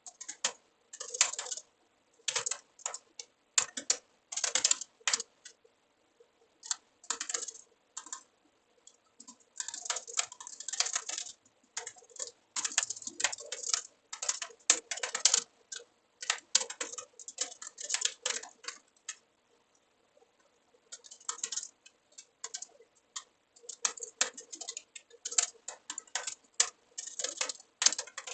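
Typing on a computer keyboard: bursts of rapid keystroke clicks separated by short pauses, with a longer pause of a couple of seconds about two-thirds of the way through.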